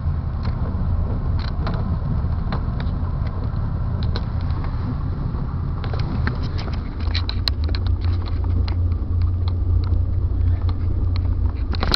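Car driving on a snowy road, heard from inside the cabin: a steady low rumble of engine and tyres that grows a little louder about halfway through, with scattered light clicks and ticks.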